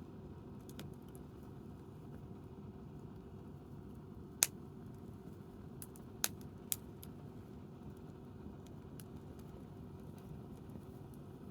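Wood campfire burning, with a few sharp crackles and pops from the burning firewood, three of them loud: about four and a half seconds in and twice close together about two seconds later. Under them is a steady low background rumble.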